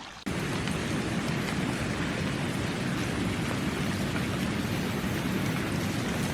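A steady rushing noise that starts abruptly just after the start and holds even throughout.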